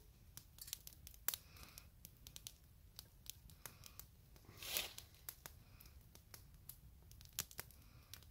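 Newly lit campfire crackling: irregular sharp pops and ticks of burning wood, with a brief soft rush about halfway through.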